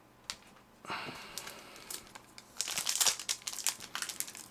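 Trading-card pack wrapper crinkling and crackling as it is pulled and worked open, hard to open because the pack is very tight. The crackling starts about a second in and is densest and loudest in the last second and a half.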